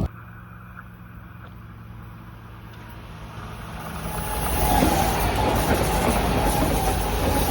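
A quiet, steady low hum, then a train approaching and passing: the rail noise grows louder from about halfway through and stays loud, with a high squeal-like tone in it.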